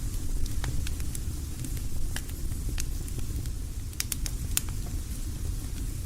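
Campfire burning, with sharp irregular pops and crackles over a low steady rumble; a quick cluster of pops comes about four seconds in.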